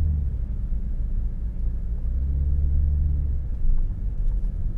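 Car engine running at low revs, with a low pitched note that swells from about two seconds in and eases off a second and a half later.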